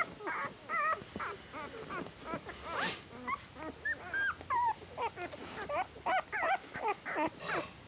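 Newborn puppies squeaking and whimpering: a rapid string of short, high, wavering cries, several a second, as they crawl and call for their mother.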